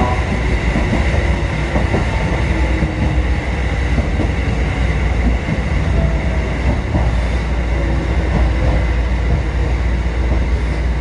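Kotoden 1080-series/1100-series electric train running on the track, heard from inside the front of the train: a steady heavy rumble of wheels and running gear, with a faint clatter of wheels over rail joints and a few faint, slowly falling tones.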